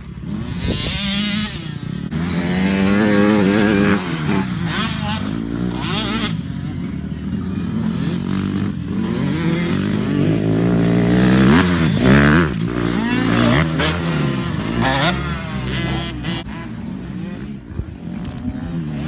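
Dirt bike engine running and revving, its pitch rising and falling again and again as the throttle is worked.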